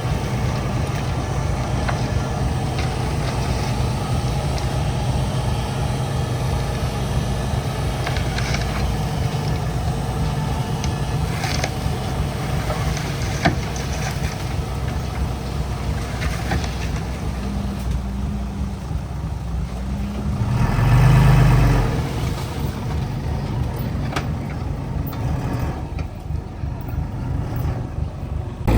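Diesel engine of heavy earthmoving equipment running steadily, rising briefly in speed and loudness about two-thirds of the way through.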